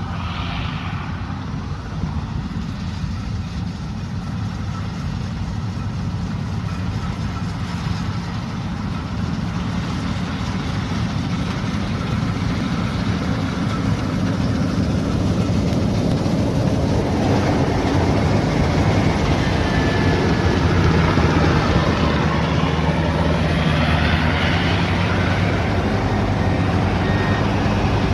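Heavy farm machine's engine running steadily, slowly growing louder and noisier from about halfway through.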